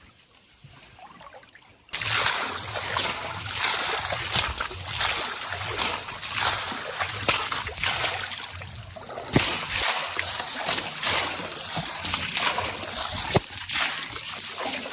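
Water splashing and sloshing, starting suddenly about two seconds in and going on as a dense run of sharp splashes.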